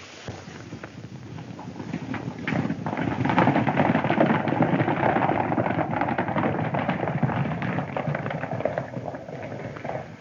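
Hoofbeats of several galloping horses, a dense clatter that swells a few seconds in and fades toward the end as the riders pass.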